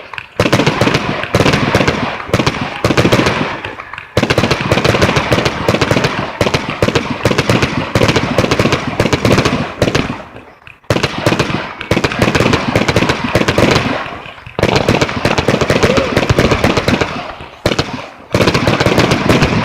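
Aerial fireworks going off in rapid, dense strings of bangs and crackles. They come in about five long stretches, with brief lulls near 4, 10, 14 and 18 seconds in.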